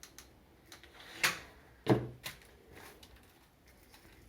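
Handling noise from craft work at a table: two sharp knocks about half a second apart, the second one heavier with a low thud, among faint small clicks.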